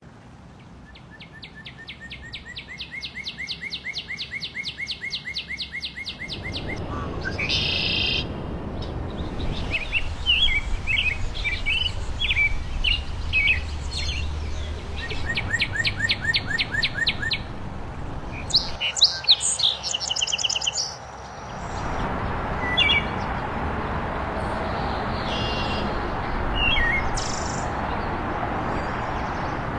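Songbirds singing: first a fast trill of evenly repeated notes that grows louder, then a run of varied chirps and short trills. A steady rushing background noise joins at about six seconds.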